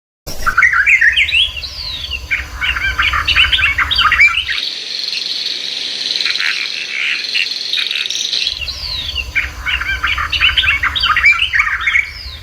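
Small birds chirping and twittering in quick runs of high notes, with a steadier high buzz of calls through the middle stretch.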